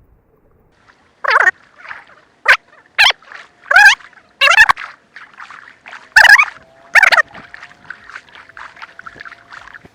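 Kayak paddle strokes: the blades dip and splash in the water, with several loud, sharp splashes in the first few seconds, then a run of smaller quick splashes and drips.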